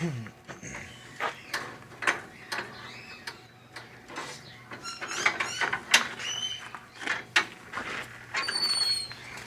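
Captive birds calling, with short chirps in the middle and a clear whistled call near the end, among scattered clicks and knocks.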